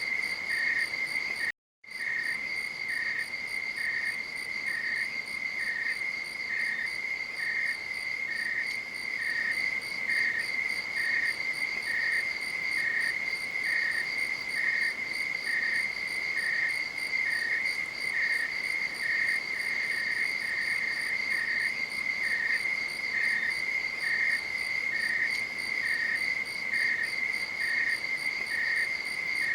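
Night insects calling: a steady, high-pitched trill runs on, while a second insect chirps in a regular beat about one and a half times a second. All the sound drops out for a moment about a second and a half in.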